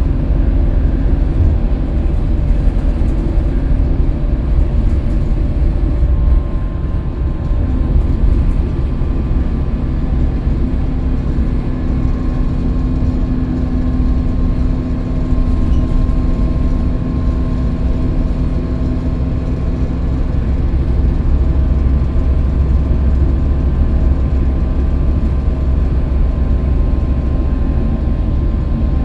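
Scania K320UB bus under way, its engine and drivetrain giving a steady low rumble with a few held tones that drift slightly in pitch as its speed changes.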